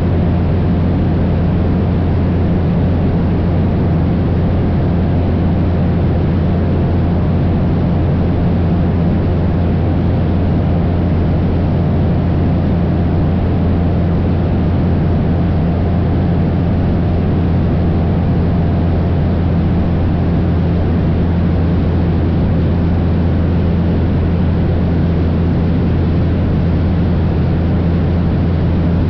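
Cessna 172 single-engine light aircraft in flight, its piston engine and propeller running with an unchanging loud drone under a steady rush of noise.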